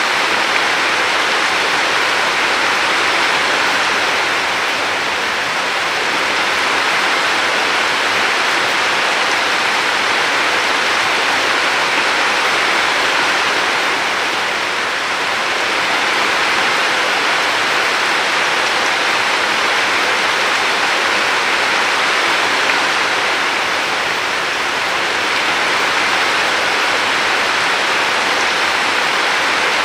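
River water flowing, a steady rushing sound that swells and eases gently every several seconds.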